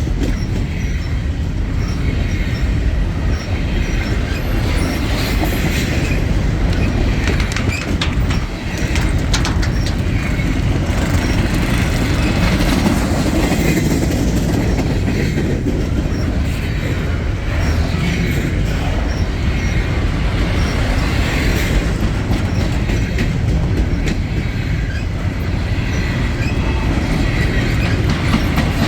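Freight train cars rolling steadily past, wheels clacking over the rail joints, with wheel squeal coming and going.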